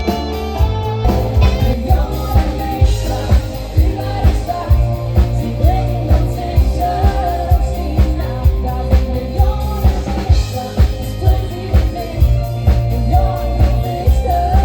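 Live cover rock band playing: drum kit keeping a steady beat with bass and electric guitar, and a singing voice over it.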